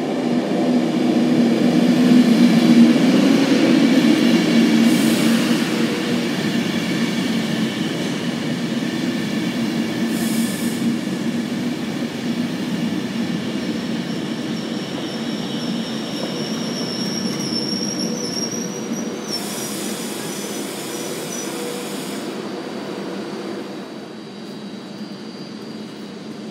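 Virgin Trains Class 390 Pendolino electric train running into the platform, its carriages rolling past close by with a steady electric whine. It is loudest about three seconds in, then grows gradually quieter as it slows. A thin high squeal rises slightly from about sixteen to twenty-two seconds in.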